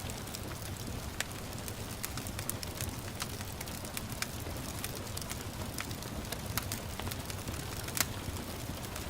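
Wood fire crackling, with sharp pops at irregular moments, the loudest near the end. Underneath is a steady hiss of gentle rain and a low rumble.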